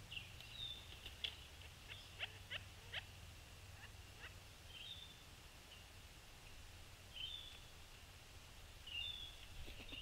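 Faint ambient feeder-cam audio: short, high bird call notes repeating every second or two, with a few sharp taps in the first few seconds and a low steady hum underneath.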